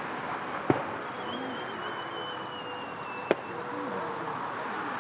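Fireworks display: two sharp bangs, about a second in and again past three seconds, with a thin whistle sliding slowly down in pitch between them, over a steady background of crowd noise.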